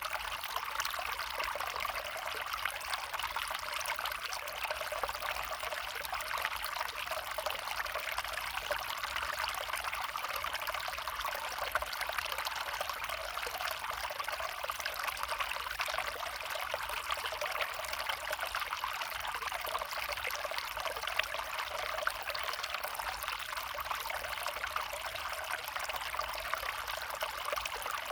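Water of a small stream trickling steadily.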